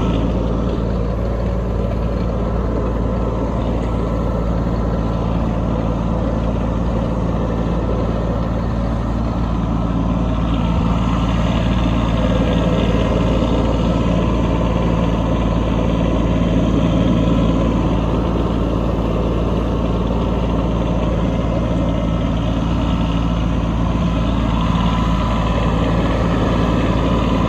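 Kubota B2601 compact tractor's three-cylinder diesel engine running steadily at working speed while the tractor pushes snow with its rear blade.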